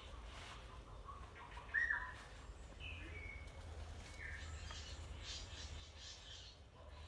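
Birds calling: a few short whistled notes that slide down in pitch, the loudest about two seconds in, over a steady low rumble.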